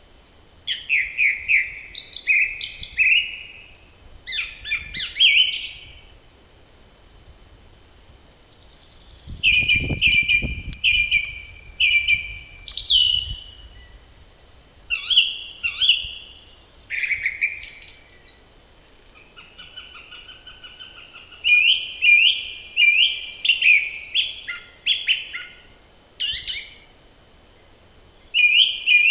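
Songbirds singing in spring: short phrases of quick repeated chirping notes, one after another, with a high buzzy trill now and then. A brief low rumble comes about ten seconds in.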